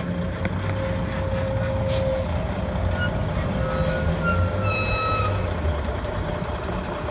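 A semi truck's diesel engine running as it passes pulling a trailer, with a short air hiss about two seconds in.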